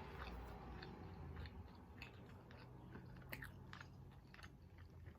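Faint close-miked chewing of a bite of breaded boneless chicken wing: scattered soft mouth clicks and small crunches over a low steady hum.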